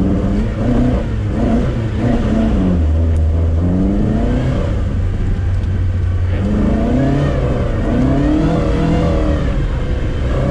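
Moskvich-408's four-cylinder engine revving as the car accelerates, its pitch climbing and dropping back several times as it goes through the gears.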